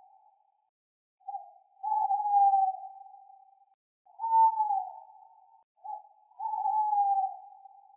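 Owl hooting: three calls, each a long tone that falls slightly at its end, two of them opening with a short lead-in note.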